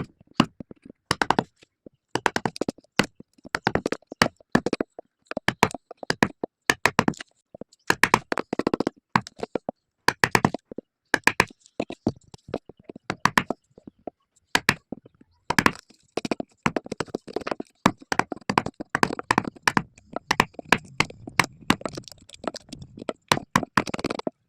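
Quick runs of sharp knocks and taps on wood, coming in clusters of several strikes with short pauses between them.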